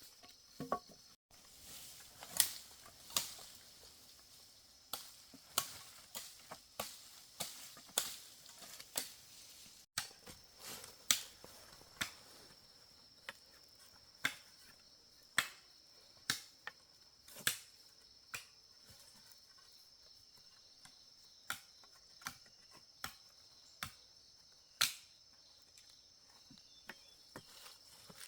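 A long run of sharp, irregularly spaced chopping or knocking strikes, about one every half second to second, thinning out in the second half. Under them runs a steady high buzz of insects.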